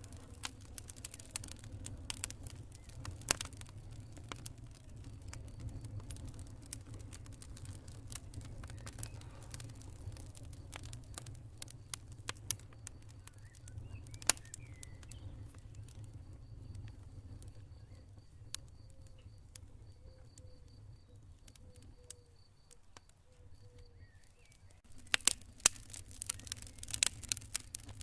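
Campfire crackling, with frequent sharp pops and snaps over a steady low rumble. The pops thin out for a few seconds, then a dense burst of loud pops comes near the end.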